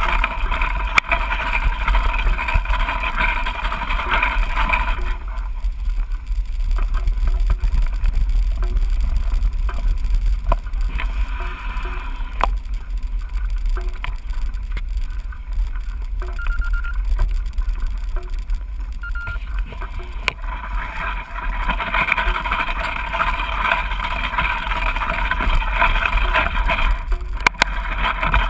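Wind and trail rumble on a GoPro's microphone as a mountain bike is ridden: a steady low rumble under a rushing hiss. The hiss eases off about five seconds in and picks up again about twenty-one seconds in.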